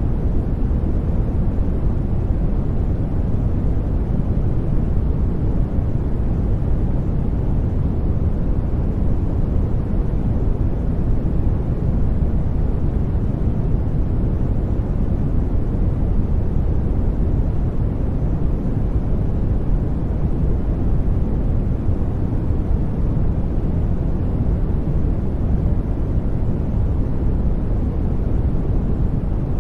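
Sleep noise track: a steady, deep rushing noise, weighted toward the low end like brown noise rather than bright white hiss. It is unbroken and unchanging, with no distinct events.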